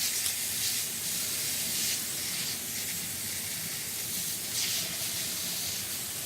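Steady hiss of water splashing onto plant leaves, swelling briefly a few times.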